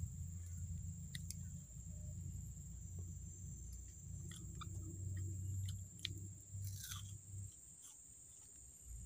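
Someone chewing and crunching food, with scattered small crunchy clicks. Under it run a low rumble, which drops away near the end, and a steady high-pitched whine.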